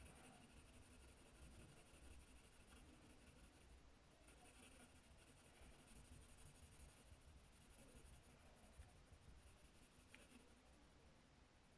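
Near silence with faint scratching of colouring strokes on paper.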